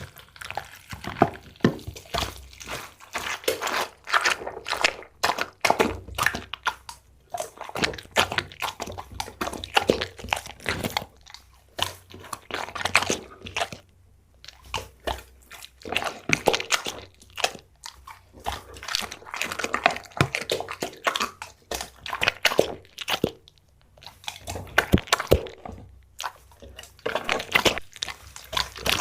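A pet chewing and crunching on chicken, with wet, irregular bites in quick clusters broken by short pauses.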